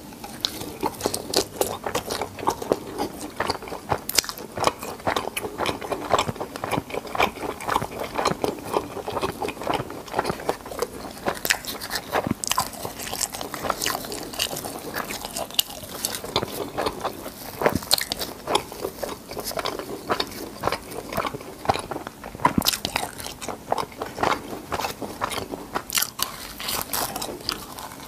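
Crispy fried cheese balls being bitten and chewed, a steady run of irregular crunchy crackles with louder bite snaps now and then.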